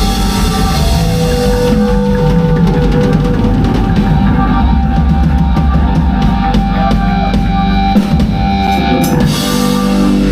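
Rock band playing live, with the drum kit prominent under held guitar notes, and a run of rapid drum hits through the middle of the passage.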